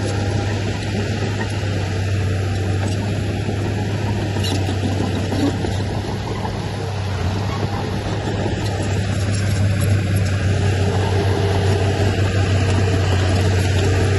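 Heavy diesel engine of earth-moving machinery running steadily with a deep hum, growing a little louder in the second half.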